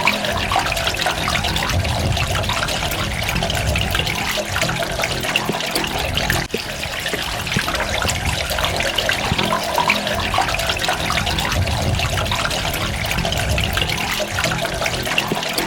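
Running water trickling and splashing steadily, with many small droplet splashes.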